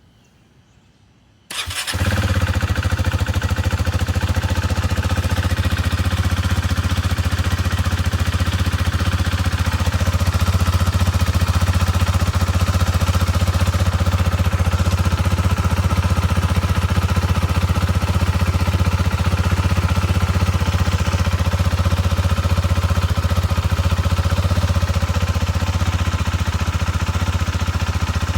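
Husqvarna Vitpilen 401's single-cylinder engine, breathing through a Coffman's Shorty aftermarket exhaust, starts about a second and a half in and then idles steadily.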